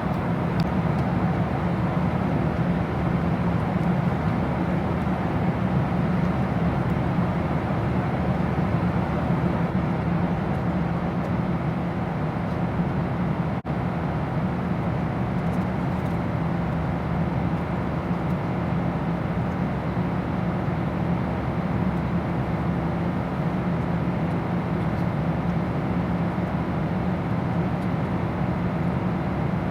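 Steady low drone of an airliner cabin in flight: engine and airflow noise with no change in pitch, briefly interrupted once about halfway through.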